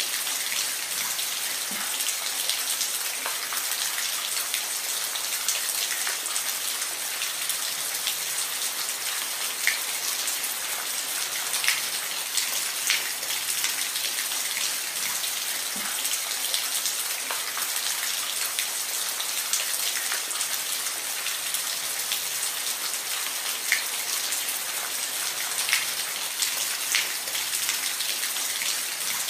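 Steady rain with individual drops pattering on a surface, a continuous hiss dotted with sharp drip clicks.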